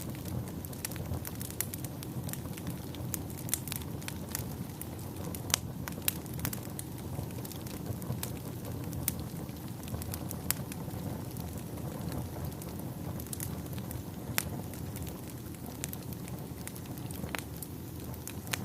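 Bonfire burning: wood crackling and popping in sharp, irregular snaps over a steady low rush of the flames.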